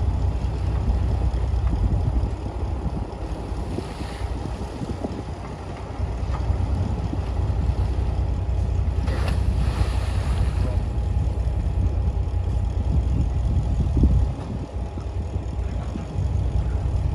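Heavy diesel earthmoving machinery running with a deep, steady rumble that eases and builds again a few times.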